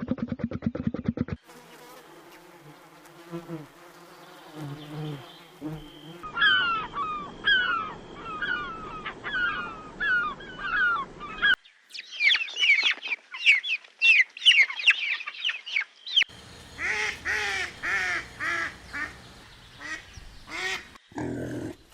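Bird calls in a run of short segments: repeated falling chirps, then a fast series of higher chirps, then lower calls with a richer tone. A brief buzz opens the stretch.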